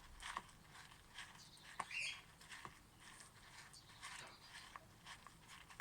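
Loose bird seed pattering and rustling in a tub as a sticky, honey-coated cardboard tube is rolled through it: soft, scattered ticks and crackles.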